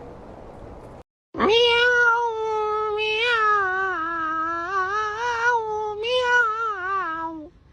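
A cat yowling in one long, unbroken call of about six seconds. The pitch wavers up and down and sinks lower toward the end, then the call stops abruptly.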